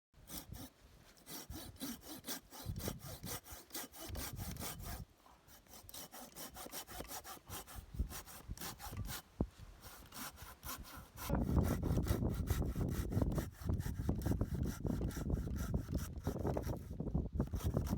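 Hand saw cutting through dry pine in steady back-and-forth strokes, becoming clearly louder about two-thirds of the way through.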